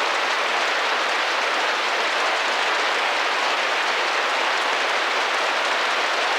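Steady rain tapping and drumming against a window pane, a dense even patter.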